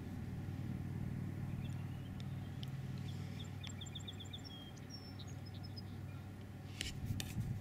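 Outdoor ambience of a steady low rumble, with a small bird chirping a quick series of high notes in the middle. A few sharp clicks come near the end.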